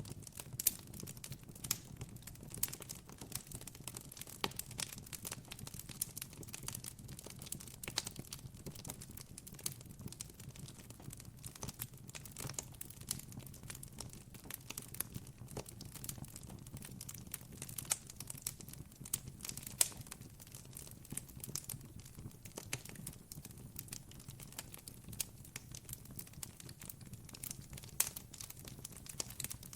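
Campfire crackling: dense, irregular small pops and snaps over a low, steady hum.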